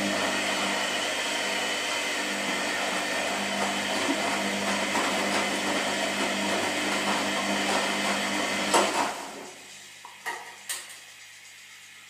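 Washing machine running: a loud, hissing phase over a steady motor hum, which stops with a sharp clunk about nine seconds in. The machine then drops to a quieter whir with two light clicks.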